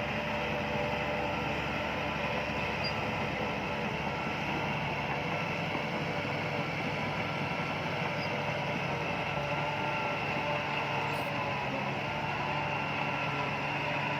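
Heavy diesel engine of an earthmoving machine running steadily, an even drone with no breaks.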